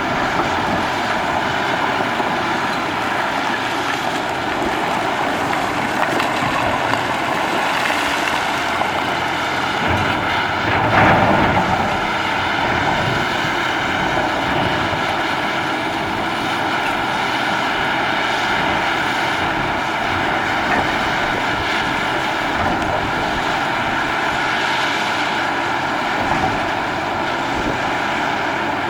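Caterpillar 6015B hydraulic mining excavator's diesel engine running steadily, with a brief louder surge about eleven seconds in.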